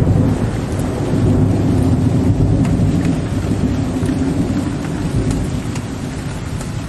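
Low rolling thunder rumbling and slowly dying away over steady rain, with scattered raindrops ticking on a window ledge.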